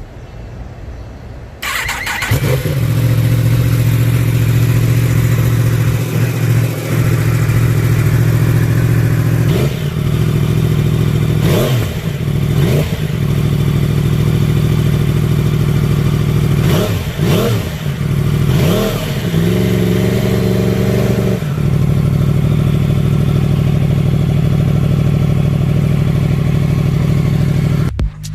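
Yamaha R1 inline-four sport bike with an aftermarket exhaust starts about two seconds in and idles. It is given half a dozen quick throttle blips and one short held rev, then drops back to a steady idle.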